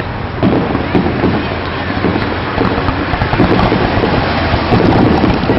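Fireworks going off in a rapid barrage, bursts and crackle running together into a continuous rumble that grows louder.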